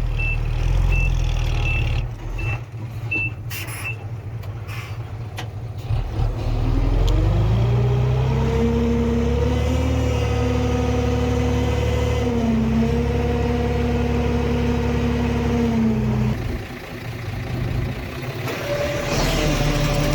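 Heavy diesel construction machinery. A reversing alarm beeps steadily for the first few seconds and a few knocks follow. Then a diesel engine revs up and holds high for about eight seconds, drops back, and revs up again near the end.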